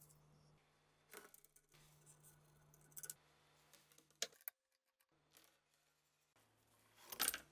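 Scattered short clicks and scrapes of metal gun parts being handled during a rebuild, the loudest a rattling scrape near the end, over a low steady hum.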